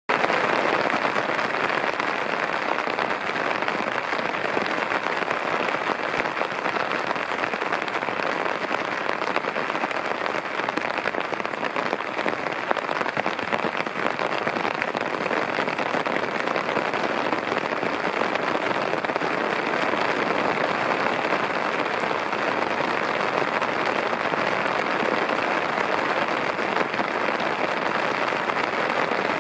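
Torrential rain falling steadily: a dense, even hiss of drops that stays at the same level throughout.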